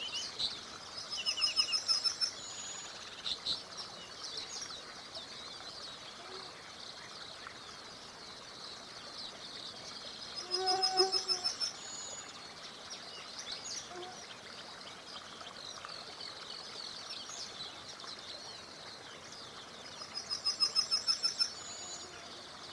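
Several songbirds singing and chirping over a steady background hiss. Three times, about a second in, midway, and near the end, one bird sings a louder song of rapid repeated notes lasting about a second.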